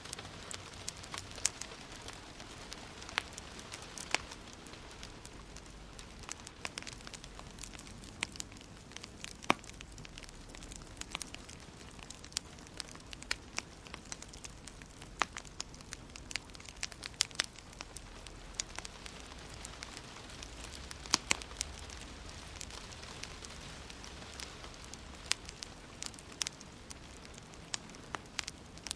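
Wood fire burning in a fireplace, crackling with sharp, irregular pops and snaps over a steady soft hiss.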